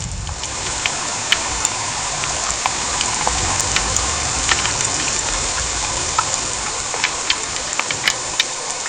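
Heavy rain: a steady hiss of downpour with many sharp drops striking close by at irregular moments, over a low rumble that swells and fades.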